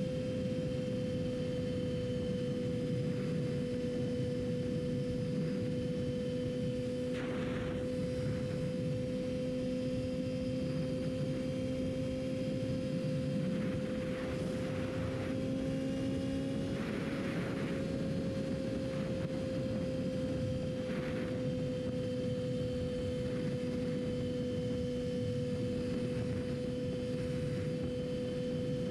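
Yamaha R6 inline-four engine running at a steady cruise, its pitch holding nearly constant with a slight rise and fall about two-thirds through, and a few brief rushes of noise on top.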